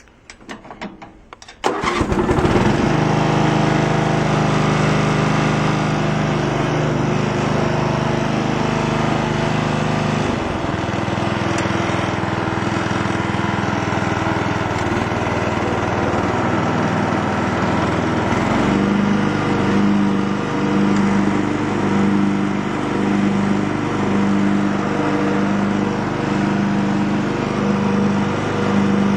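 Craftsman lawn tractor engine starting warm without choke: it catches almost at once and settles into a steady run. Its note changes about ten seconds in, and again around eighteen seconds, after which a slow, regular pulsing runs through it.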